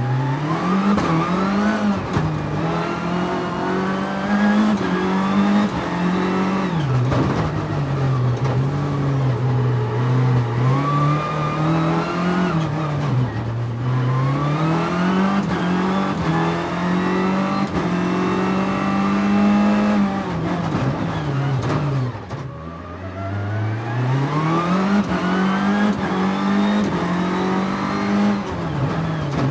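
Nissan 300ZX engine driven hard through the gears, its revs climbing and then dropping repeatedly with gear changes and lifts for the bends, heard from a camera mounted near road level. About twenty-two seconds in, the engine goes briefly quieter before it pulls up again.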